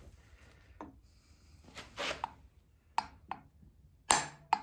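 Sharp knocks of a new rear main seal being tapped into a VW Beetle engine's crankcase: a few light taps, then two loud knocks close together near the end.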